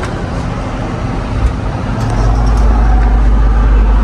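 Low, steady motor-vehicle rumble that grows louder about two seconds in.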